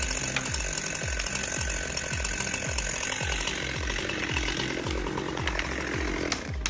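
A chainsaw running, heard under background music with a steady beat of about two thumps a second.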